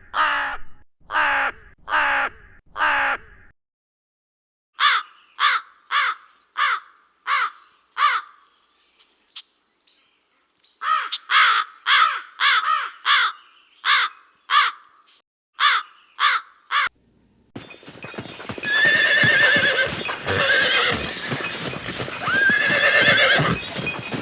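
A run of short, harsh animal calls repeated about twice a second, broken by pauses. In the last third, a horse whinnies twice over a steady noisy background.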